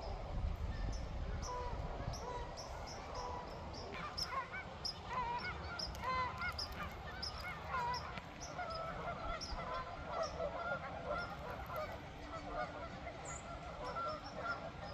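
A large flock of ducks calling, with many short calls overlapping one another. The calls grow denser and busier about four seconds in.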